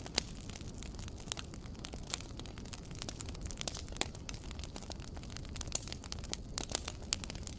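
Wood fire in a fireplace crackling, with irregular sharp pops over a steady low rumble, and a quick run of pops near the end.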